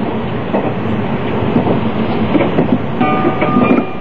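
381 series limited express electric train running at speed, heard from inside the passenger car: a steady rumble with scattered knocks from the wheels. Several steady high-pitched tones join about three seconds in.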